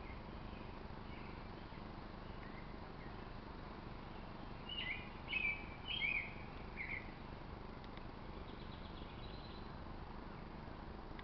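A small bird chirping: a quick run of about five short, falling chirps around the middle, with fainter chirps before and after, over steady background noise.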